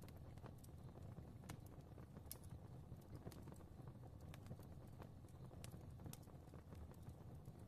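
Fireplace crackling softly: irregular faint pops and snaps, a few each second, over a low steady rumble of the flames.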